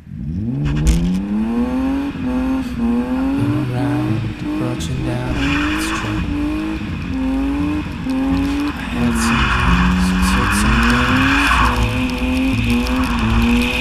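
BMW E36 320i's stock naturally aspirated 2.0-litre straight-six revving hard from low revs, then rising and falling again and again as the clutch is kicked to keep the car sliding. Tyres squeal in two stretches, about a third of the way in and again past the middle.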